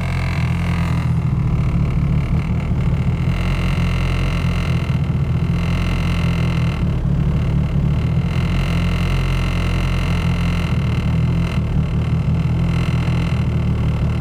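Turbocharged Ford Focus engine running steadily, a loud low drone with a fluttering, uneven texture. The owner suspects a misfire, put down to the plug wires or a cylinder 2 fuel injector after a new coil pack did not cure the bad idle.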